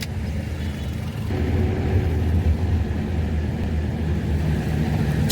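A car driving: a steady low engine and road rumble that grows a little louder about a second in.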